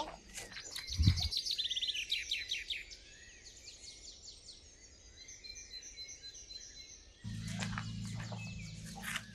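Birds chirping: quick runs of repeated high notes, then fainter scattered calls. About seven seconds in, a steady low hum joins them.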